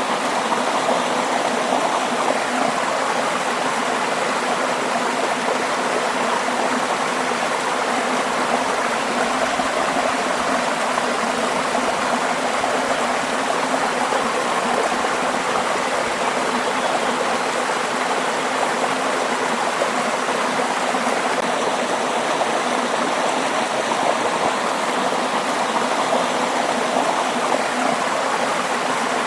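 Waterfall and its stream, a steady, unbroken rush of falling and flowing water.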